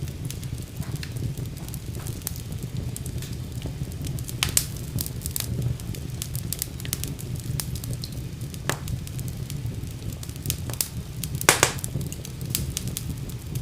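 Wood fire burning in a fireplace: a steady low rumble of the flames with irregular crackles and pops, the loudest pop about eleven and a half seconds in.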